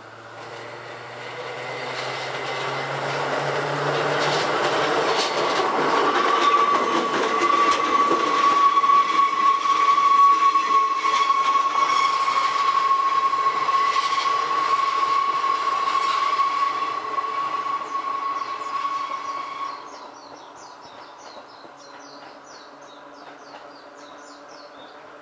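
Hakone Tozan Railway Moha 1 electric railcar approaching and passing on a curve: a rising rumble with clicks over the rail joints and a steady high whine. The sound drops away about twenty seconds in, leaving insects buzzing.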